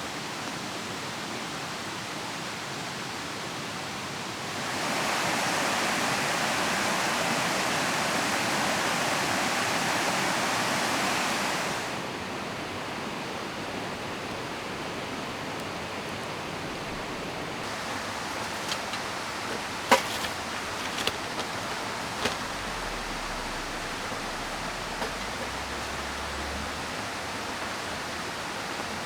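Steady rushing of a river and falling rain. It grows louder for several seconds, starting about four seconds in and ending abruptly about twelve seconds in. A few sharp clicks come later, the loudest about twenty seconds in.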